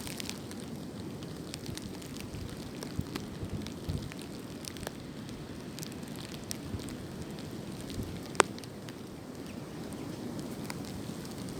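Wind blowing through swaying tree branches: a steady low rush with scattered crackling ticks throughout, and one sharp click about eight seconds in.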